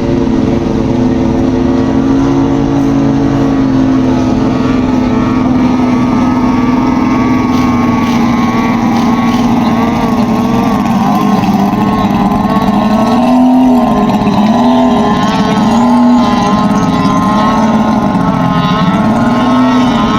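Racing powerboat engine warming up before a race: it runs at a steady speed, then about two-thirds through is revved up and down repeatedly, about once a second.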